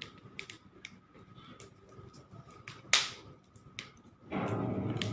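Bonfire crackling: irregular sharp pops and snaps of burning wood, with one loud pop about three seconds in. Music with singing starts up near the end.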